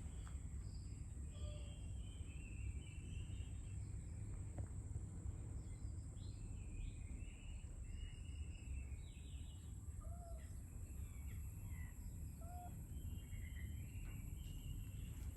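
Birds chirping on and off, short scattered calls, over a steady low rumble of outdoor background noise and a constant high whine.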